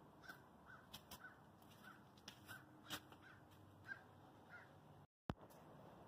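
Faint repeated calls of a bird, about eight short calls a little under half a second apart, with a few light clicks. Near the end the sound cuts out completely for a moment and returns with a sharp click.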